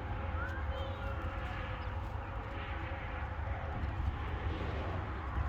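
Button quail giving a few short, soft chirps over a steady low hum and constant hiss.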